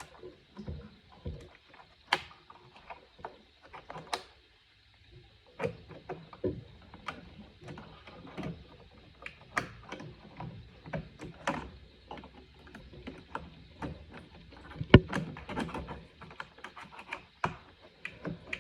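Irregular small clicks, taps and knocks of hand work on an old accordion's bass button mechanism, with one sharper knock about fifteen seconds in.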